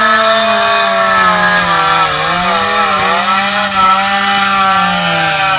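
Chainsaw engine running at high revs, its pitch sagging and recovering a couple of times as if under load in the cut.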